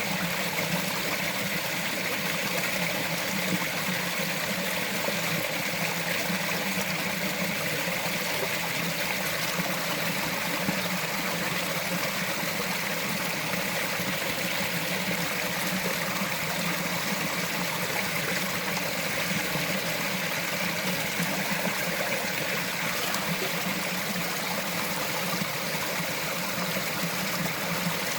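Small mountain forest stream flowing and trickling over rocks, a steady, even rush of water.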